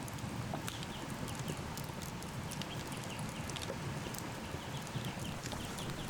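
Campfire crackling: irregular pops and snaps of burning wood over a steady low rumble.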